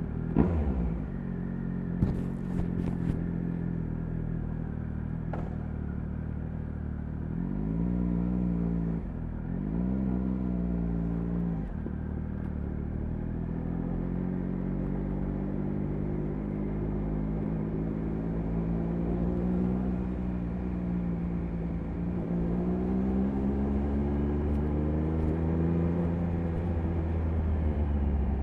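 Triumph Speed Triple 1050 RS's inline-three engine catching as it starts, then idling, with two short throttle blips about eight and ten seconds in. Revs rise slowly near the end. A few light clicks come about two to three seconds in.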